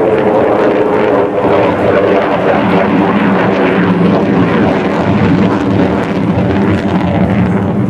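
Grumman F-14 Tomcat jet engines in flight, a loud, steady rushing jet roar with a droning hum underneath.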